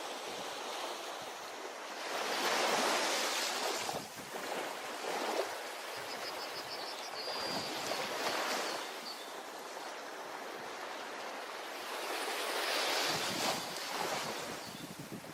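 Ocean waves breaking on a beach, the surf swelling and easing about every five seconds. A brief high chirp comes about halfway through.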